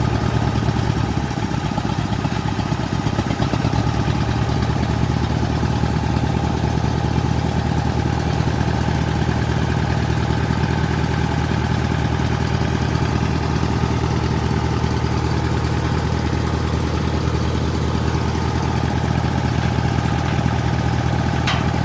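A combustion engine running steadily at a constant speed.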